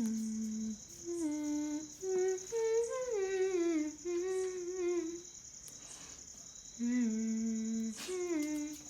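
A woman humming a slow tune in several short phrases, over a steady high chirring of insects.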